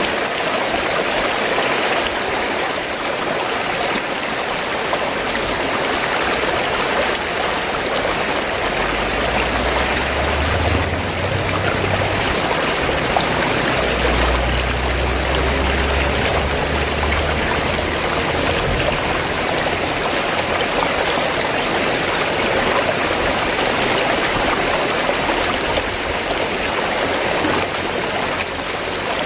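Fast-flowing stream gurgling and rushing, a steady wash of water noise. A low rumble sits under it for several seconds midway.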